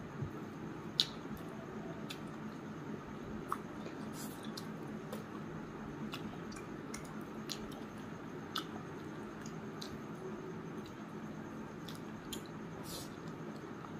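Close mouth sounds of a person eating curry and rice by hand: wet chewing with scattered short smacks and clicks, over a steady low background hum.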